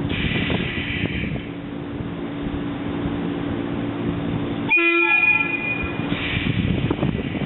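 A train running by with steady rumble and wind noise on the microphone, broken about five seconds in by one short toot of a train horn.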